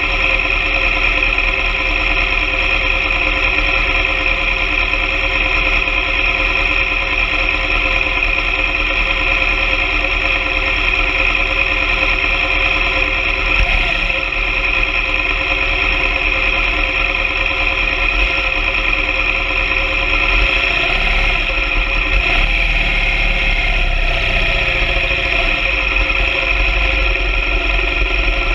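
BMW R 1200 GS Adventure sidecar rig's boxer-twin engine running at a steady speed while riding, a constant drone with a strong high whine.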